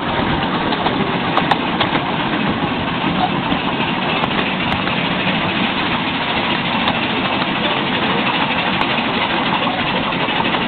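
Steady running noise of a miniature railway train in motion, heard from on board: continuous rumble of wheels on the track with a few scattered clicks.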